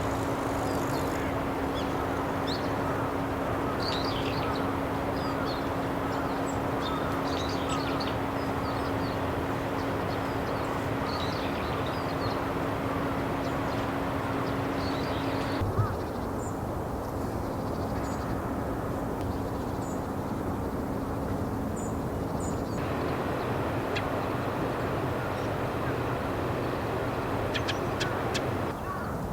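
Steady outdoor background noise with scattered short, high bird chirps through the first half. Near the end come a few short, sharp calls of a dusky thrush.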